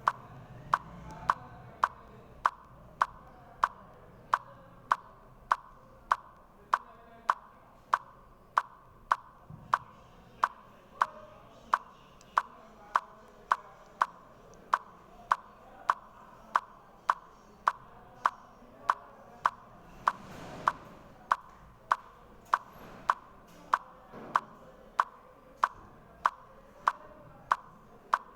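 Steady, evenly paced ticking, a little under two sharp ticks a second, over a faint background hiss.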